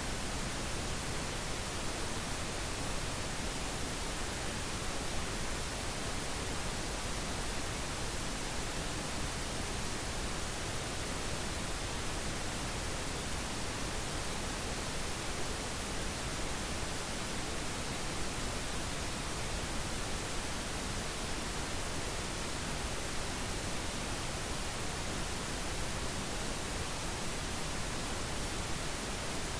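Steady synthetic pink noise: an even, unchanging hiss across the whole range, with no events or changes.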